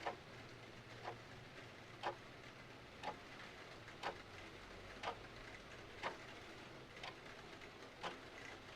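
Clock ticking steadily, one tick a second, over a faint steady hiss of rain.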